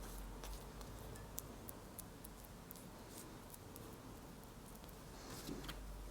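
Faint, scattered clicks and small taps of hand work at a workbench over a steady low hum, with a few ticks close together near the end.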